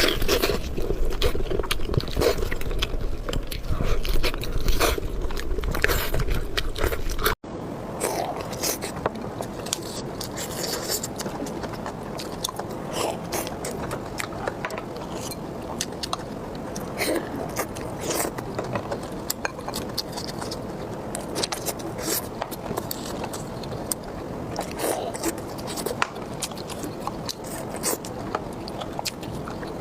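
Close-miked eating sounds: repeated bites and chewing with occasional scrapes. About seven seconds in, the sound changes abruptly at a cut to another recording.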